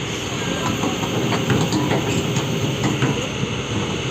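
Excavator running with its steel tracks clanking, and several sharp metallic knocks between about one and three seconds in.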